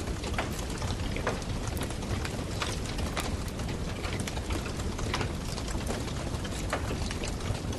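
Campfire crackling: irregular sharp pops and snaps, several a second, over a steady low rush.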